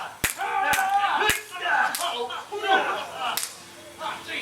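Blank gunfire in a staged Wild West gunfight: about five sharp cracks at uneven intervals, with shouting voices between the shots.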